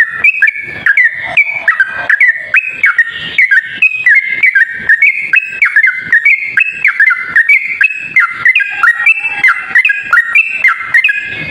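Yellow-vented bulbul (cucak trucuk) singing a rapid, unbroken run of short whistled, chattering notes, about four a second, rising and falling in pitch: the long-duration song played as a lure to draw in wild bulbuls.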